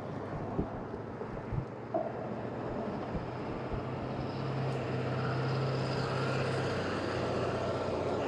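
Road traffic: a motor vehicle passing close by, its engine hum and road noise building from about three seconds in and holding loud to the end.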